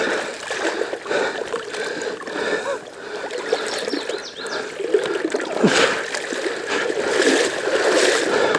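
Water splashing and sloshing as a dirt bike wades through deep floodwater.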